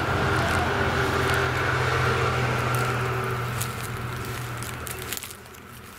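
A motor vehicle's engine idling steadily, overlaid with scattered crackles and snaps of dry grass and twigs. The engine hum drops away about five seconds in.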